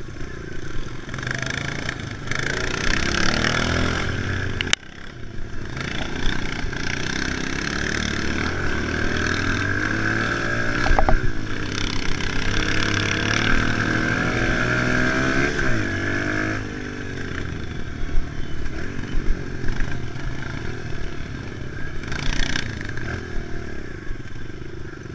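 Kawasaki KLX110 pit bike's small four-stroke single-cylinder engine running under load while being ridden, its pitch rising and falling with the throttle. The engine note drops suddenly about five seconds in, then builds again.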